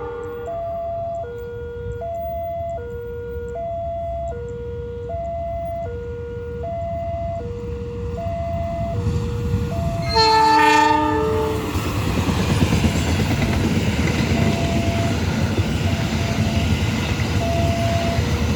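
A two-tone electronic warning alarm alternates a lower and a higher note, each lasting about three quarters of a second. About ten seconds in, the approaching diesel locomotive sounds its air horn once for about a second and a half. The train then runs through at speed with a rising rumble of wheels on rail, the alarm still going faintly underneath.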